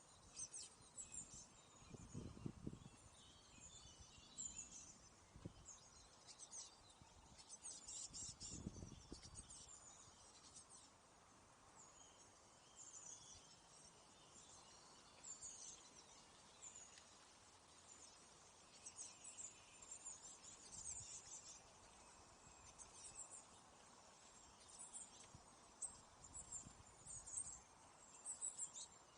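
Small birds chirping faintly, many short high calls scattered throughout over a steady faint outdoor hiss. Two low thuds or rumbles come about two and nine seconds in.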